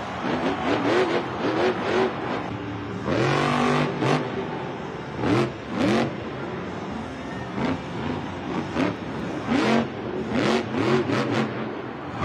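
Monster truck engine revved in quick repeated blips, each rising and falling in pitch, with louder surges every second or two and a longer climbing rev about three seconds in.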